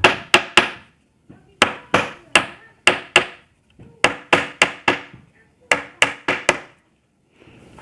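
Hammer tapping small panel nails deeper into a board, about seventeen sharp knocks in quick groups of two to five with short pauses between.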